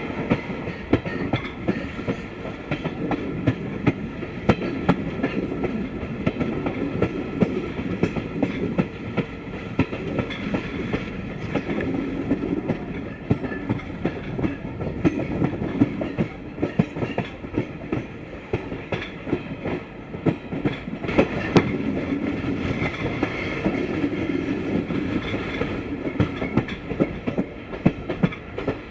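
Broad-gauge passenger train running on the rails, heard from aboard: a steady rumble of the coaches with frequent, irregular wheel clicks and knocks over the track.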